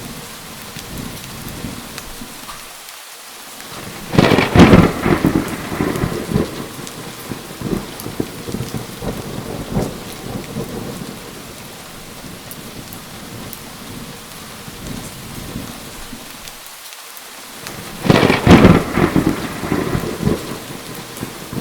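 Thunderstorm: steady heavy rain with two loud cracks of thunder, one about four seconds in and another near the end, each rolling off in a rumble over a few seconds.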